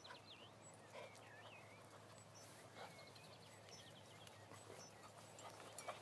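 Near silence outdoors, with faint scattered bird chirps and short trills.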